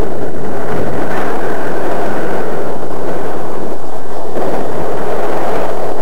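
Strong gusting wind buffeting the microphone, a loud, distorted, steady rush with no clear engine note standing out.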